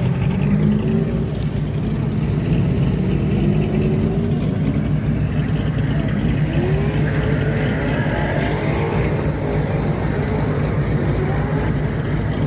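Car engines running steadily, with a rising and falling engine note partway through, as from a car revving.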